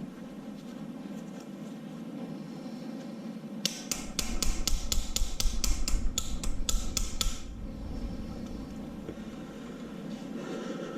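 A hammer rapping on metal: about fifteen quick, sharp strikes over three and a half seconds, roughly four or five a second. It is working a stuck part loose from the engine.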